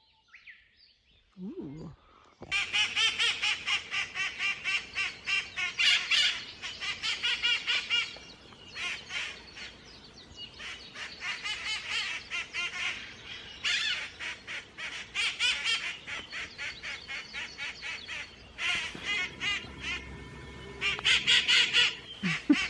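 A flock of wild parrots calling: many harsh, rapid squawks one after another, starting about two and a half seconds in, easing off twice and then picking up again.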